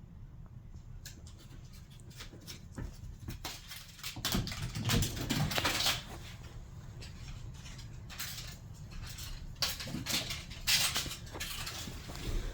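A kitten playing with a thrown toy: scattered taps and scuffling, loudest in bursts about four to six seconds in and again near ten to twelve seconds.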